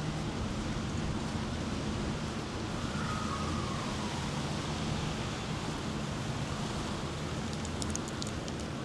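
Steady outdoor ambience with a constant low mechanical hum under an even hiss, and a few faint high ticks near the end.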